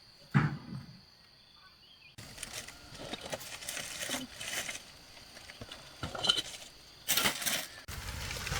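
A single sharp knock with a short ringing tail, then a run of scattered knocks and clatter.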